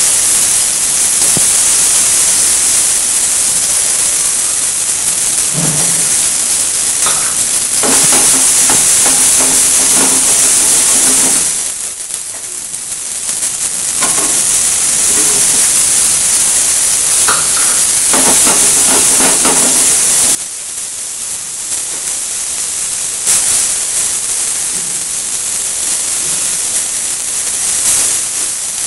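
Bell pepper pieces sizzling in oil in a hot steel frying pan: a loud, steady hiss, with busier crackling spells as more pieces are dropped in.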